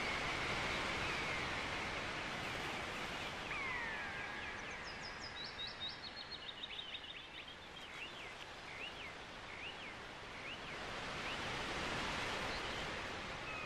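Outdoor ambience: a steady hiss with birds calling over it. There are falling whistles at the start, then a quick run of short high chirps and a string of repeated up-and-down notes in the middle.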